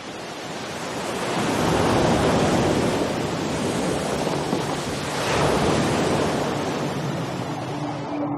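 Ocean surf: waves rushing and breaking, swelling loudest about two seconds in and again about five seconds in.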